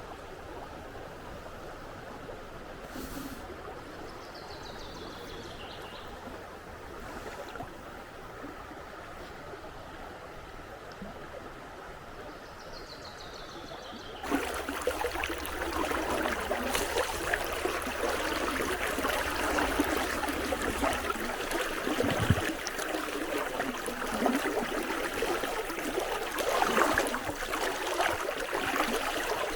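Flowing river water, a steady rushing. About halfway through, it cuts abruptly to a louder, closer babble of water. A high falling whistle is heard twice in the quieter first part.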